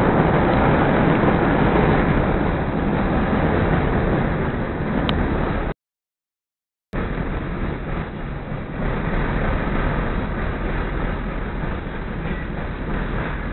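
Steady running noise of a CTA 2400-series rapid transit car, heard from inside as it travels along the track. The sound cuts out completely for about a second midway through.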